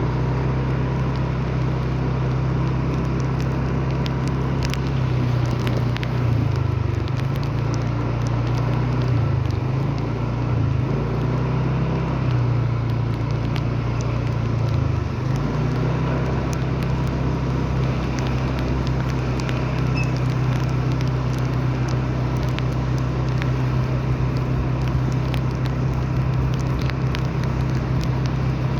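Light rain pattering as many small drop ticks over a steady low vehicle rumble.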